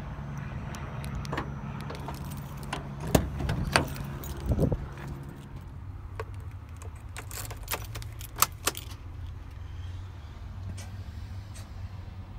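Sharp metallic clicks and jangles, in two clusters about three seconds in and about eight seconds in, over a steady low engine hum.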